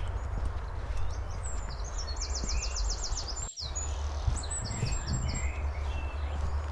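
A small songbird sings a rapid, high trill of about ten notes just past two seconds in, then a shorter high series a second later. Under it runs a steady scuffing of footsteps on the forest floor and a low rumble.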